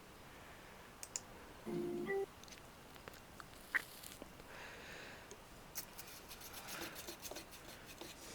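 Scattered clicks of a computer keyboard and mouse, with a quick run of clicks about six seconds in. A short pitched electronic tone sounds about two seconds in.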